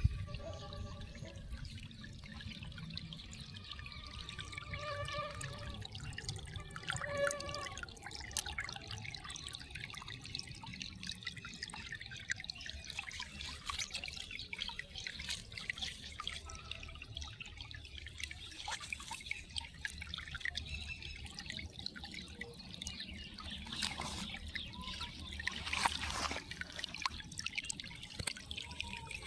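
Water dripping and trickling, a steady patter of many small drops.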